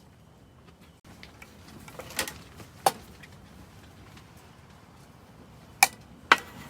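Four sharp knocks or clicks, as of objects being handled and set down, over a faint steady hiss.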